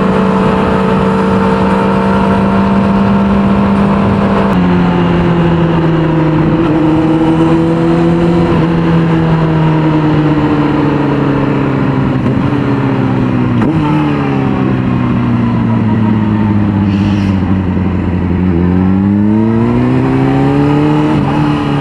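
A 600cc sport bike's inline-four engine under way, with a steady rush of wind. About four and a half seconds in the engine note steps down as the bike shifts up, then sinks slowly as the bike slows. Around nineteen seconds the revs climb again before easing off near the end.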